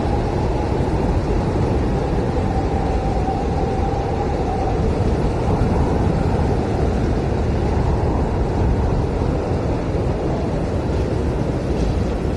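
Blizzard wind blowing hard and steadily, a deep rushing roar with a faint wavering howl over it for the first few seconds.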